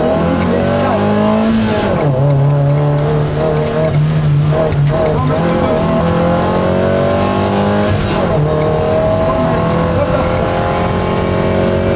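MG F rally car's four-cylinder engine, heard from inside the cabin, pulling hard with the revs climbing steadily. The revs fall sharply about two seconds in, again around four to five seconds and again about eight seconds in, and climb again after each fall.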